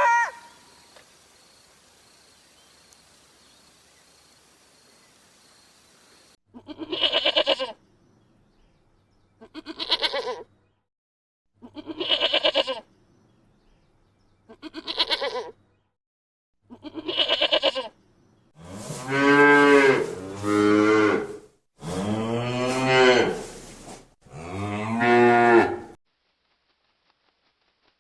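Cattle mooing: five shorter calls spaced about two and a half seconds apart, then four longer, louder moos in quick succession, each rising and falling in pitch.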